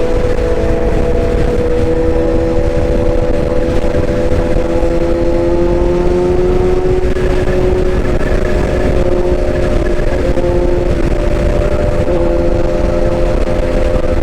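Excavator running steadily after its track repair: a low engine rumble with two steady whining tones that drift slightly in pitch.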